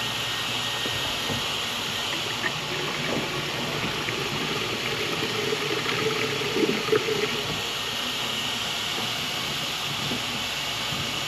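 Steady rushing hiss of water and sediment being pumped out of a residential tank water heater through a drain hose as the tank is drained and flushed.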